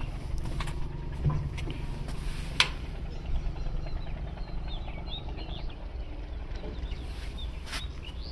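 Small birds chirping in short high calls from about three seconds in, over a steady low rumble, with a few sharp clicks.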